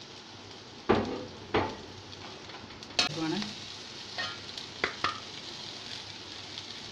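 Coconut pieces, onion, ginger and green chillies sizzling steadily in hot oil in a pan while a steel ladle stirs them, scraping and knocking against the pan several times.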